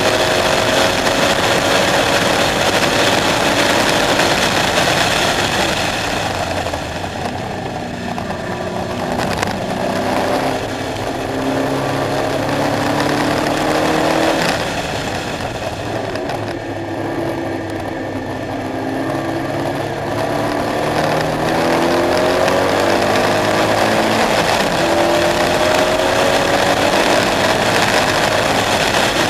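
KTM X-Bow sports car's engine under hard driving. It pulls up through the revs and lifts off twice, the pitch dropping and the sound quieter for a few seconds each time, then it accelerates again with the engine note rising.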